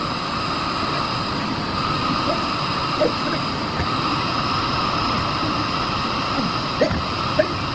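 Miele Blizzard CX1 bagless canister vacuum cleaner running steadily with a constant motor whine and airflow rush, with a few faint knocks as it is worked over the floor.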